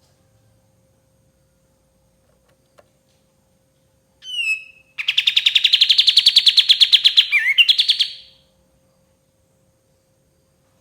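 Kapas tembak bulbul singing: a short falling note about four seconds in, then a loud, rapid trill lasting about three seconds that dips in pitch near its end. A faint steady hum runs underneath.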